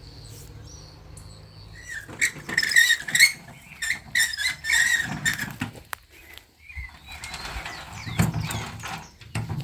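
Rustling and crackling in dry brush and grass: a quick run of irregular crackles from about two seconds in, then a softer rustle near the end.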